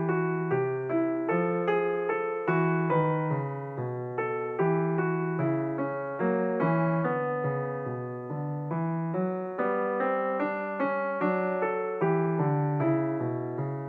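Background piano music: a gentle melody of single notes, each struck and fading, at about two notes a second.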